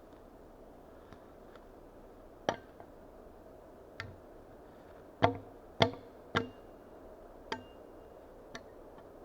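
Axe blows into wood: about seven sharp, irregularly spaced strikes, the two loudest near the middle, some leaving a brief ringing tone.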